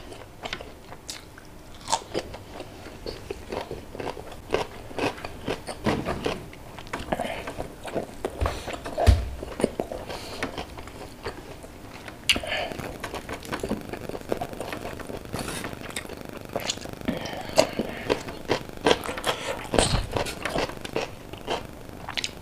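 Close-up eating sounds: a person chewing and crunching fried fish and rice eaten by hand, with many irregular crisp clicks and wet mouth noises. Two low thumps stand out, about nine and twenty seconds in.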